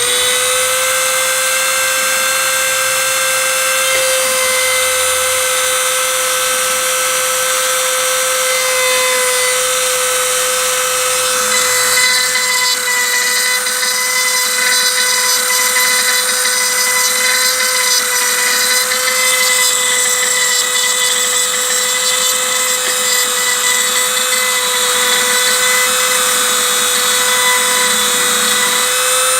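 Spindle of a homemade CNC router running with a steady whine as its end mill cuts into a 3 mm aluminium sheet dry, without coolant or lubrication.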